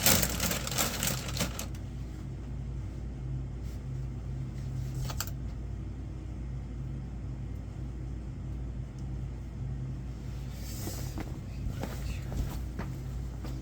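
Goods and packaging being handled in a burst of rustling and clatter for the first couple of seconds, then a steady low hum with a few light knocks and another short rustle near the end.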